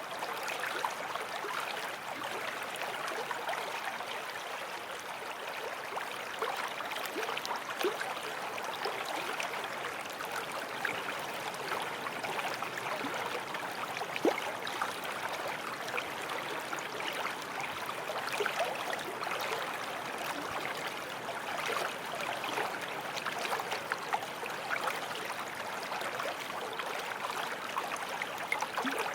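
Small forest stream running over stones: a steady babble of flowing water, with many small splashes and gurgles.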